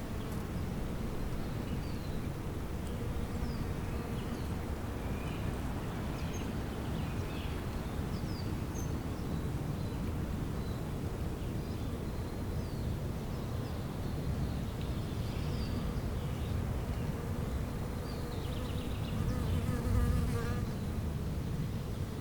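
Bees buzzing steadily, swelling louder briefly near the end as one passes close, with scattered short bird chirps above.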